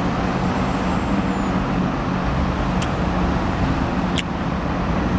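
Steady car road noise with a constant low engine hum, and two brief sharp clicks about three and four seconds in.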